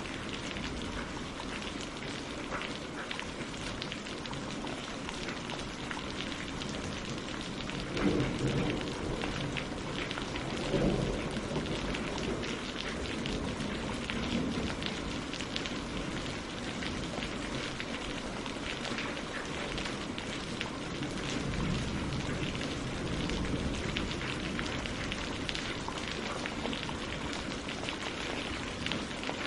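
Steady rain falling on tree leaves and lake water, a dense patter of many close drops. A couple of low swells of sound rise briefly about eight and eleven seconds in.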